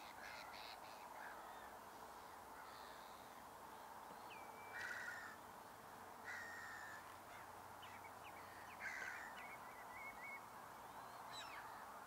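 Faint harsh bird calls over a steady low hiss of open estuary air: three louder calls about five, six and nine seconds in, with a few short chirps and a quick run of notes between them.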